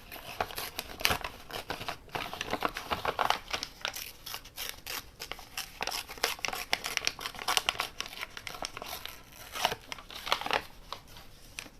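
Paper being torn by hand in a series of short, crackly rips, with crinkling as the sheet is handled between tears.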